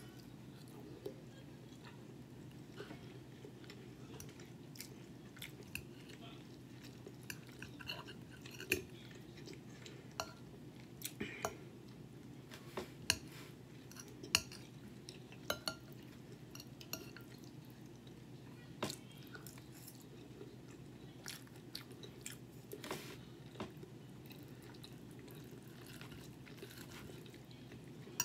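Close-up chewing of a forkful of bacon, egg and cheese omelette, with sharp clinks of a metal fork against the plate every second or so, over a steady low hum.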